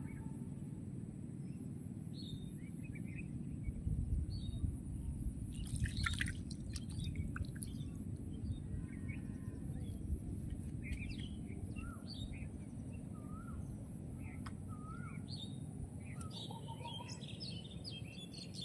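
Small birds chirping and whistling in short, scattered calls over a steady low rumble of outdoor ambience, with a few brief clicks about six seconds in.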